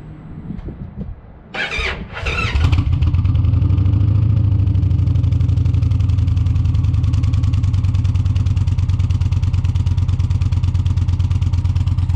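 Indian Challenger's V-twin engine with Rinehart Racing exhaust starting. It cranks in two short bursts about two seconds in, catches, and settles into a loud, steady, deep idle.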